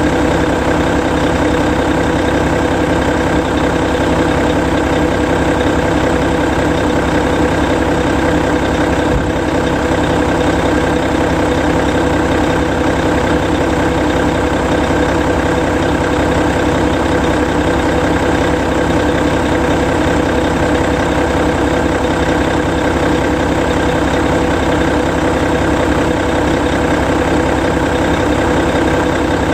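Hino E13C 12.9-litre inline-six diesel engine of a Hino Selega ADG-RU1ESAA tour bus idling steadily with the bus parked.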